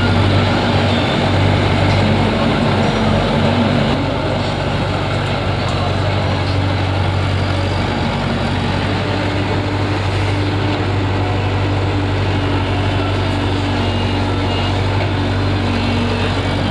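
Heavy diesel vehicle engine running steadily at an even speed with a constant low hum.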